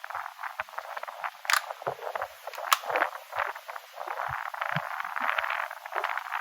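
Irregular crackling and rustling of parts being handled, with two sharp clicks, one about a second and a half in and one near the three-second mark.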